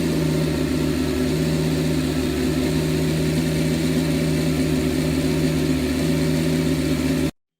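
Small handmade 125 cc V10 engine running at a steady speed, an even unchanging hum. It cuts off suddenly near the end.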